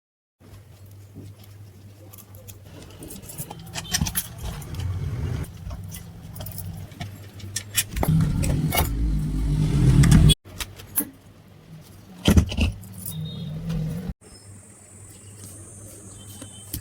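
Metal parts clinking and rattling as they are handled, over a steady low electrical hum. The sound cuts out abruptly twice, about ten and fourteen seconds in.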